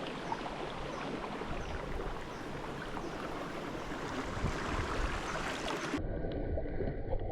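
River water flowing in a steady, even rush. About six seconds in, the sound cuts abruptly to a duller, more muffled water noise.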